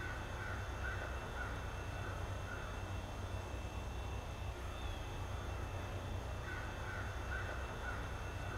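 A bird calling in two runs of about five short, evenly spaced calls, one at the start and one near the end, over a low steady rumble of outdoor noise.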